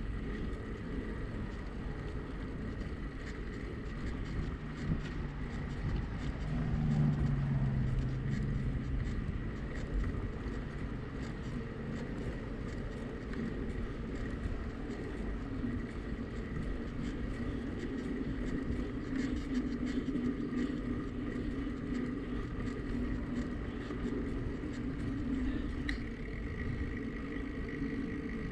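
Bicycle riding along a road: steady wind and tyre rumble on the camera microphone. A motor vehicle's hum swells about a quarter of the way in, and another vehicle's hum is held through the later part.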